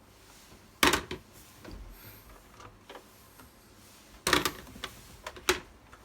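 Three sharp clunks with some clatter, about a second in, just past four seconds and again a second later, with a few fainter clicks between.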